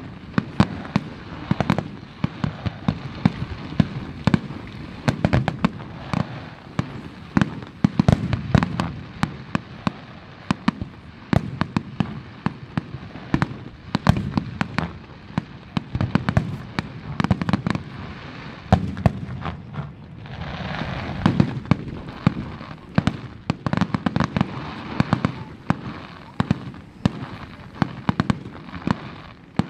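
Aerial fireworks display: a rapid, continuous series of shell bursts and bangs. About twenty seconds in, a stretch of dense hissing crackle joins them.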